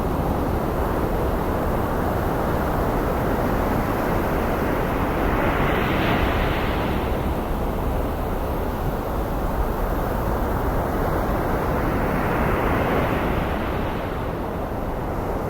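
Ocean surf blended with steady white noise, with two waves washing in and fading, one about six seconds in and another about thirteen seconds in.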